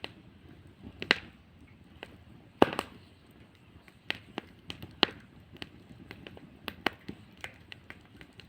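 Wood bonfire crackling, with irregular sharp pops and snaps; the loudest pop comes about two and a half seconds in.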